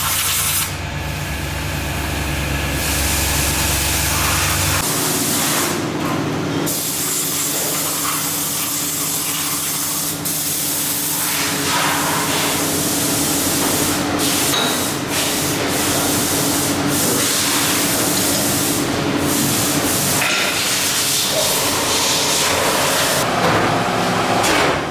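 Factory machinery in a piston plant: a loud hissing, spraying sound over a steady machine hum. It changes abruptly several times as one machine's noise gives way to another's.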